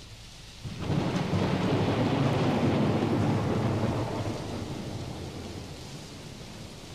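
A roll of thunder over steady rain: the rumble swells about a second in and fades slowly over several seconds, with the rain hiss continuing.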